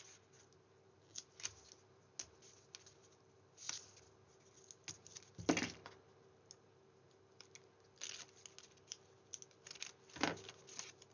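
Cardstock and paper being handled and folded by hand: scattered light taps and clicks with brief rustles, the loudest about five and a half seconds in and near the end.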